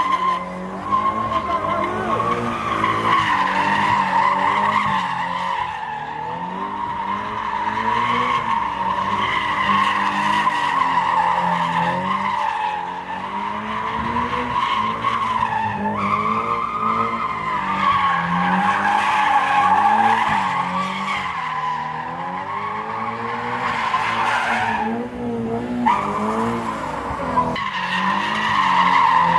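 A car doing donuts or a burnout, its tyres squealing loudly and continuously while the engine revs rise and fall, with a short break in the squeal near the end.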